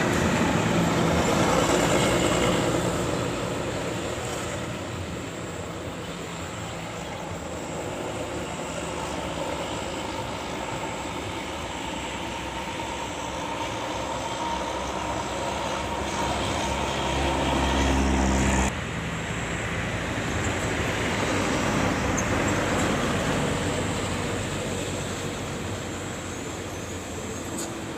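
Heavy road vehicles driving past with their engines running, the sound swelling and fading. The sound changes abruptly about two-thirds of the way in, then another vehicle approaches and passes.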